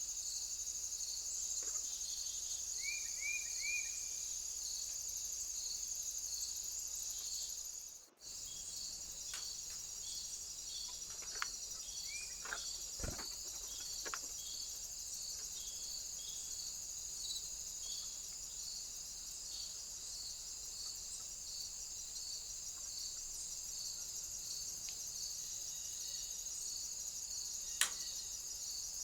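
Insect chorus of crickets: a steady high-pitched trilling with a regular chirp repeating more than once a second. A few short chirps come in about three seconds in. A brief dropout about eight seconds in marks a cut between two recordings.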